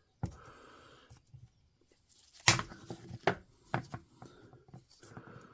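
Hand-fitting of hammer-drill motor parts: a few separate sharp clicks and knocks as the pieces are handled and seated, the loudest about two and a half seconds in.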